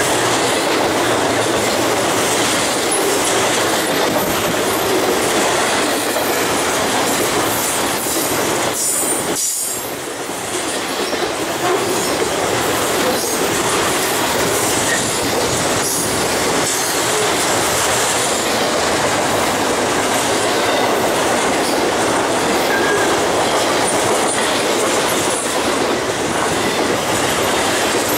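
A BNSF double-stack intermodal freight train's cars rolling past at speed: a loud, steady rush of steel wheels on rail, briefly quieter about ten seconds in.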